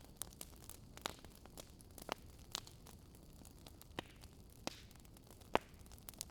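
Wood fire in a fireplace crackling: irregular sharp pops of burning logs, about a dozen, over a soft hiss, the loudest pop about five and a half seconds in.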